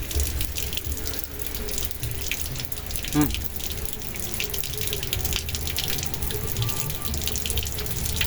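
Water running and splashing steadily, with a short pitched sound about three seconds in.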